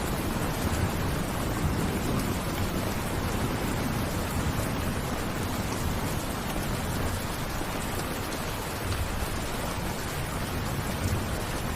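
Steady rain falling: an even, unbroken hiss with a heavy low rumble underneath.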